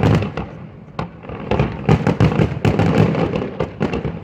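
Fireworks display: shells bursting in quick succession as a volley of sharp bangs. The bursts are densest from about one and a half to three seconds in.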